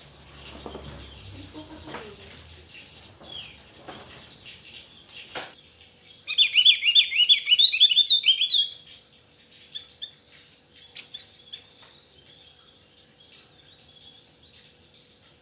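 Javan grey-throated white-eye (opior jawa) singing: about six seconds in, a loud, rapid run of high chirping notes lasts about two and a half seconds, followed by a few faint calls. Before the song there are only faint low rumbles and scattered light knocks.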